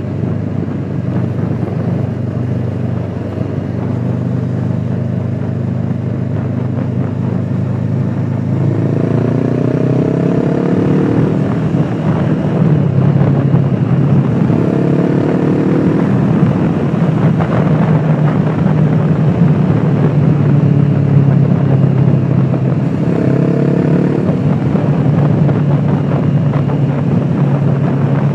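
Honda CBR500R's parallel-twin engine running on the move, heard from a phone in the rider's pocket. It gets louder about eight seconds in, and its pitch climbs three times as the bike accelerates.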